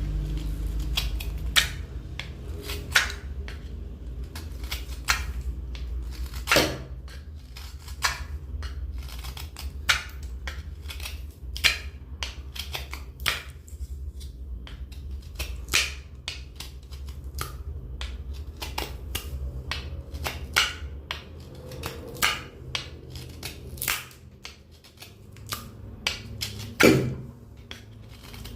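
Hand tools cutting into wood during carving: a run of sharp, irregular clicks and snaps, about one or two a second, with a couple of heavier knocks, over a steady low hum that fades about three-quarters of the way through.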